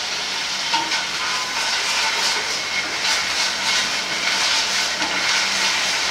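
Garlic and ginger paste sizzling in hot rice bran oil in a frying pan, stirred with a wooden spatula; the sizzle grows louder about two seconds in.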